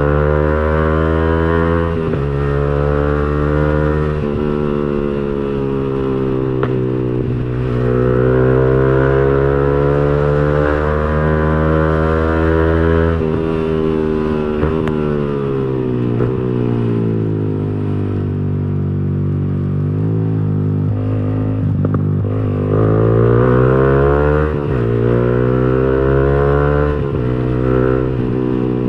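Yamaha R15 V3's single-cylinder engine through an aftermarket racing exhaust while riding: the revs climb and drop sharply at gear changes several times, fall away for a while and then build up again.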